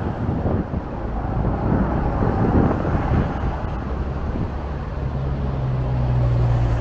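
Road traffic on a city street, a steady noisy rumble with wind on the microphone. About five seconds in, a vehicle's steady low engine hum comes in and holds.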